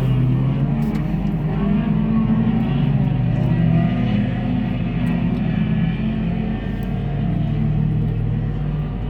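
A pack of sport compact race cars running at speed on a dirt oval, a continuous engine drone whose pitch rises and falls as the cars go through the turns.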